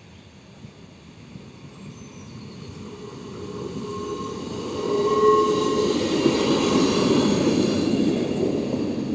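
A train approaching and passing over a level crossing, growing louder over about five seconds and then staying loud. Wheels squeal on the rails about four to six seconds in.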